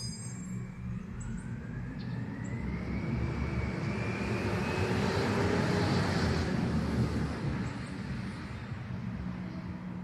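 Garbage truck engine pulling away. Its whine rises in pitch as it speeds up and grows louder to a peak about halfway through, then eases off over a steady low rumble.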